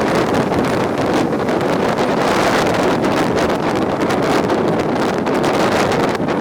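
Strong wind buffeting the microphone: a loud, steady rushing with no let-up.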